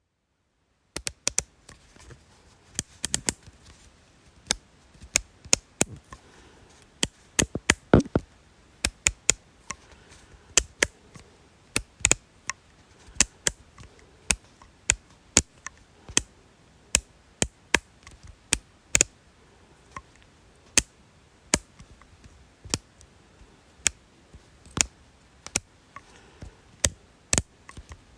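Sharp, dry clicks at irregular intervals, roughly one to three a second and sometimes in quick pairs, starting about a second in over a quiet background.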